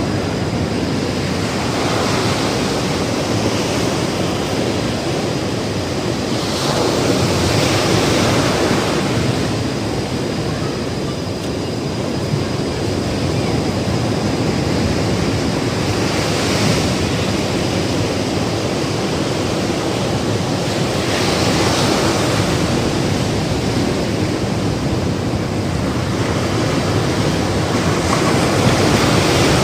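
Ocean surf breaking on a beach: a continuous wash of water with a wave swelling and crashing every few seconds, about five in all.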